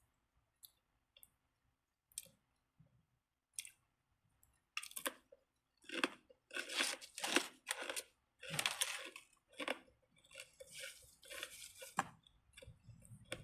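A person eating: a few faint clicks at first, then chewing and crunching in quick bursts from about five seconds in.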